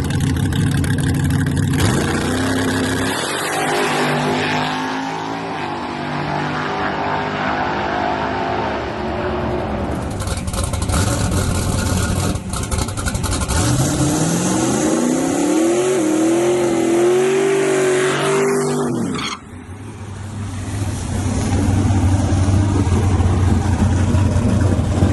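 Drag racing truck engines at full throttle. About two seconds in, one launches and climbs in pitch through its gear changes. A second run rises in pitch from about halfway and cuts off abruptly near the end, followed by a loud, steady engine running at low revs.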